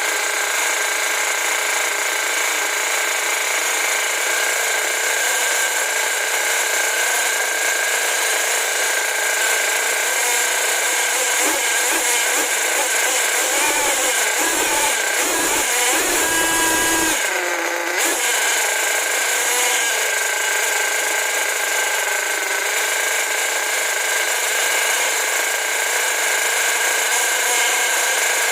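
Force .32 nitro two-stroke glow engine running steadily at a high-pitched buzz while it is being run in after a rebuild, with a brief unsteady patch a little past the middle.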